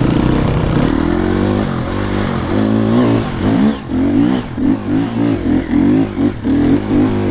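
Enduro dirt bike engine being ridden, revving up and down as the throttle is worked. From a few seconds in the revs rise and fall in quick pulses, about one and a half a second.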